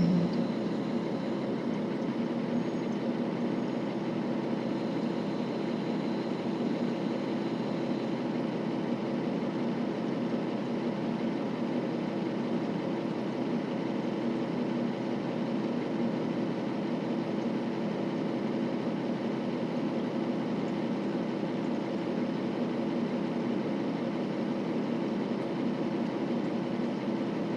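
KiHa 40 series diesel railcar's engine idling steadily while the train stands still, heard from inside the car.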